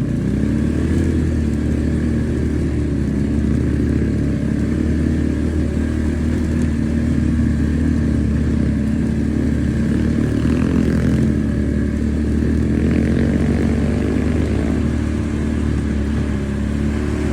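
A pit bike's small engine running at a steady, unchanging speed.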